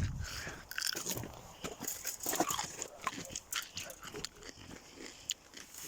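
An animal eating, with irregular crunching and snuffling sounds.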